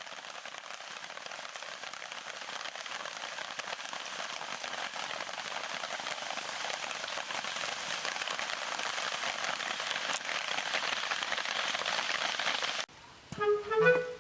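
Heavy rain falling, a dense hiss of drops that grows steadily louder, then cuts off suddenly near the end as clarinet-led background music begins.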